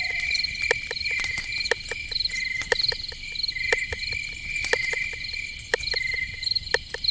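Night forest ambience of crickets chirping in repeated short pulsed trills, with sharp irregular clicks scattered through it, a few per second.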